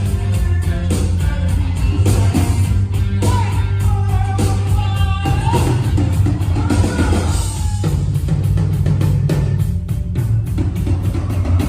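Rock song with a sung lead vocal over drums, bass and guitar; the voice drops out about eight seconds in, leaving the drums and bass.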